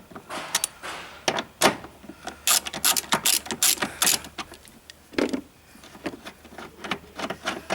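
Hand ratchet wrench with an 11 mm socket clicking in quick irregular runs as it backs out a slightly rounded bolt.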